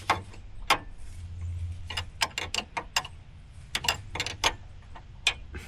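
Ratchet wrench clicking in short irregular runs as a bolt is worked into the steering gear box, its thread binding. A steady low hum runs underneath.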